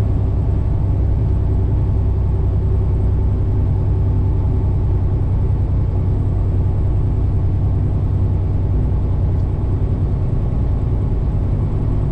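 Tractor-trailer's diesel engine and road noise under way, a steady low drone that holds an even pitch throughout.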